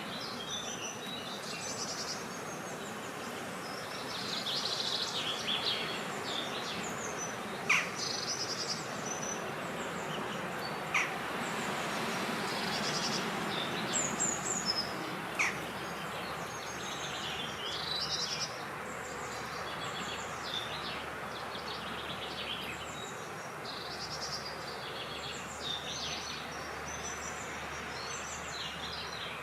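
Several birds chirping and singing in short overlapping phrases, over a steady hiss of wind. Three brief sharp ticks stand out about a third and halfway through.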